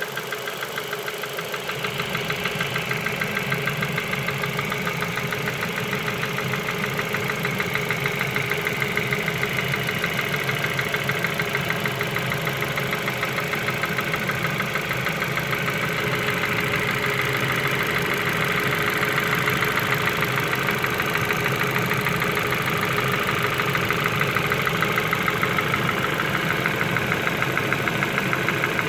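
Ford Focus 2 engine idling steadily with a rapid, even knock running through it: the engine knock the owner is showing.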